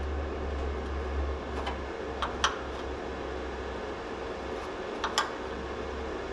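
A steady low mechanical hum, like a fan, with a few light clicks about two seconds in and again about five seconds in.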